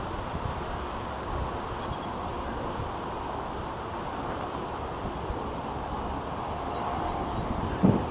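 Strong wind buffeting the microphone as a steady rumble, with the faint whine of the electric RC Extra 260's outrunner motor. The motor's tone grows a little stronger near the end.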